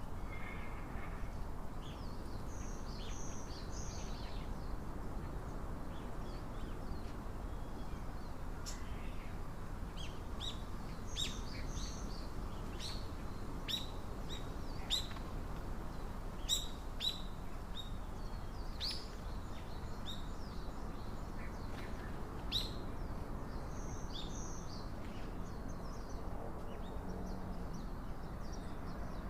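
Small birds giving short, sharp chirps, each a quick downward sweep, scattered irregularly and thickest in the middle, over a steady low background noise.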